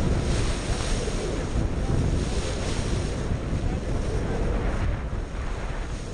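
Steady, loud rushing noise with wind buffeting the microphone.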